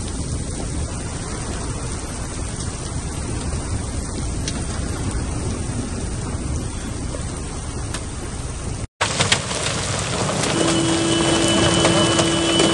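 Torrential rain and hail falling, a steady rushing downpour. About nine seconds in, the sound drops out for an instant and comes back as a louder, crackling downpour with many sharp patters of drops and hailstones. A steady tone sounds for about three seconds near the end.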